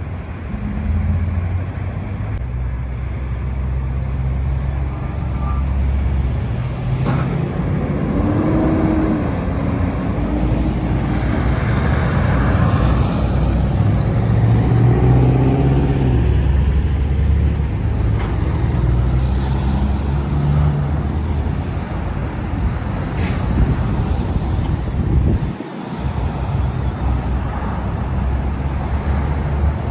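Heavy semi trucks running and passing on a road: a steady low diesel engine rumble with shifting engine notes and road noise, and a couple of short sharp clicks.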